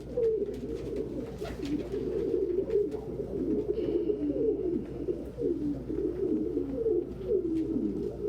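Many domestic pigeons cooing at once, their low, rising-and-falling coos overlapping without a break.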